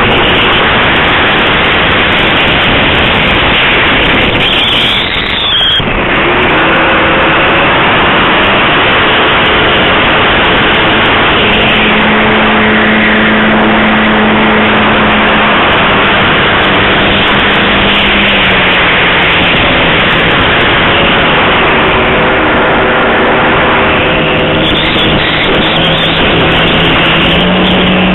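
Geared electric motor and propeller of an RC model plane, the Astroflight Cobalt 25, heard from a camera on board in flight under heavy wind rush. The motor tone shifts in pitch with the throttle, with a short dip and a quick rise about five seconds in.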